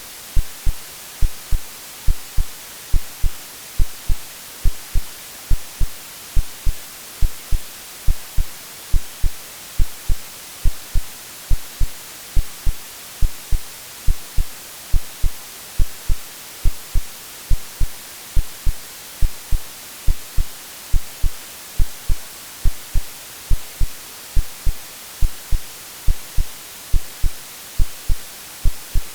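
AI-generated heartbeat sound, low double thumps (lub-dub) at a steady pace of about one beat a second, over a constant white-noise hiss.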